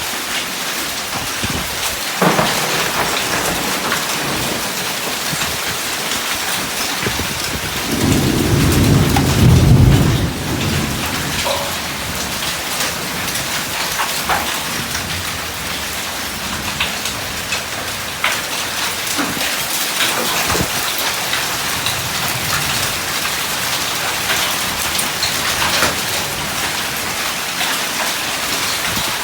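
Heavy rain mixed with hail pelting down, a steady hiss dotted with sharp ticks of hailstones striking surfaces. A low rumble of thunder rises about eight seconds in and fades after two seconds.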